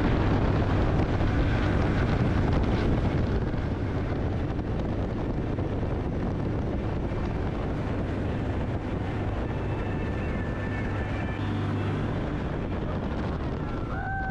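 Jet boat running at speed: a steady engine drone under rushing wind and water noise buffeting the microphone, easing slightly after a few seconds.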